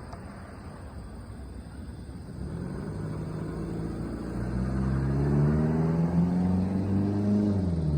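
A motor vehicle's engine growing louder from about two and a half seconds in, its pitch dropping near the end.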